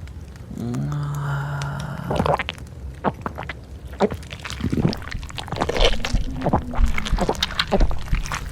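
Wet mouth sound effects of swallowing: squishing, smacking and gulping in quick irregular clicks, after a brief low vocal sound about half a second in.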